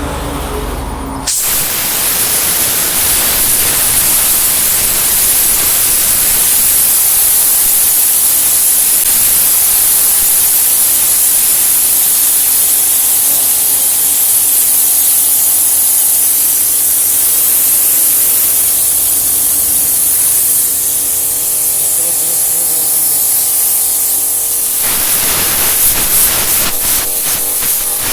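Compressed air from an air compressor driving a water spray gun: a loud, steady spraying hiss that starts abruptly about a second in and turns rougher near the end.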